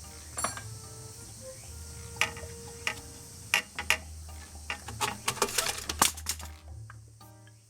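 A series of separate sharp clicks and knocks over a steady low hum, thickest about two-thirds of the way in. Music starts near the end.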